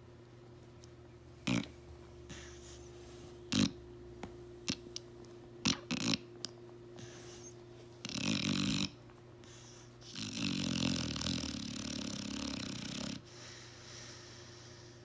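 Blue nose pit bull snoring in its sleep: a few short snorts and snuffles in the first half, then a snore a little after 8 seconds in and a long rattling snore of about three seconds near the end.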